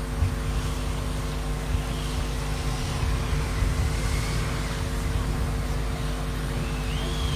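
Background ambience during a hush: a steady low rumble with a constant hum, with no speech. Faint high gliding tones come through, and one rises and then falls near the end.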